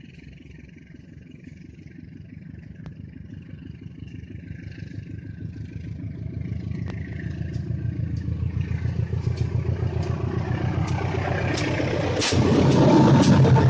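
Diesel train approaching and growing steadily louder: a low engine rumble with sharp wheel-on-rail clicks that come more and more often. The noise jumps suddenly louder near the end as the train draws close.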